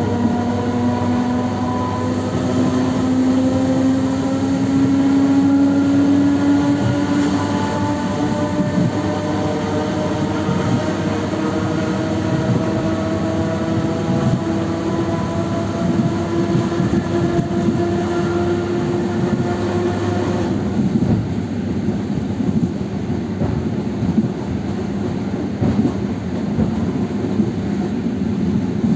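ED9M electric multiple unit under way: the traction motor and gear whine rises steadily in pitch as the train accelerates, over the rumble of wheels on the rails. About two-thirds of the way through the whine cuts off suddenly as traction power is shut off, leaving the wheel and track rumble with occasional knocks as the train coasts.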